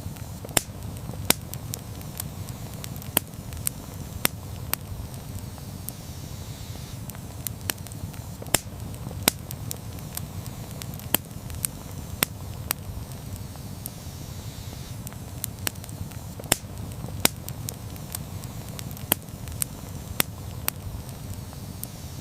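Campfire burning, with sharp wood pops and crackles at irregular intervals over a steady low rush of the flames.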